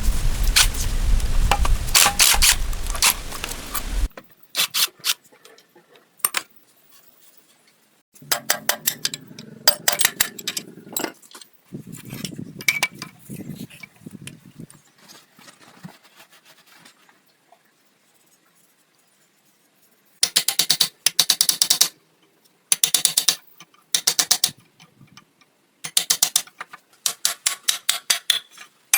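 Hand work on metal engine parts: a loud, dense rushing noise cuts off suddenly about four seconds in. Metal clinking and scraping follow, then several quick runs of rapid, evenly spaced clicking near the end.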